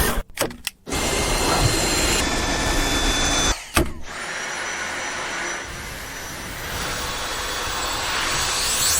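Cordless stick vacuum cleaner running: a steady rush of air with a thin, high motor whine. It breaks off briefly under a second in and again near four seconds in.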